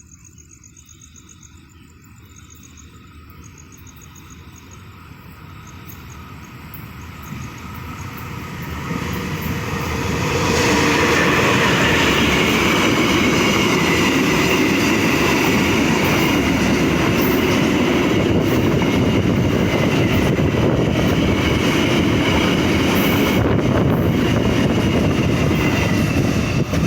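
A Pertamina freight train approaching and passing at speed: its rumble and rail noise build steadily over about ten seconds, then hold loud and steady as the wagons rush by. Crickets chirp faintly at the start before the train drowns them out.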